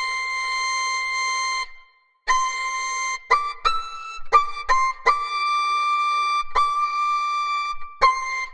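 A single high, flute-like wind instrument playing a slow tune of long held notes and a few short ones, with a brief pause about two seconds in.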